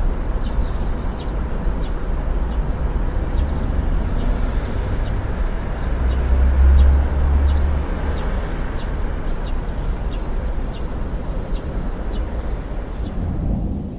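Steady rain with a deep low rumble that swells a little past the middle and eases off near the end. Short high chirps come and go throughout.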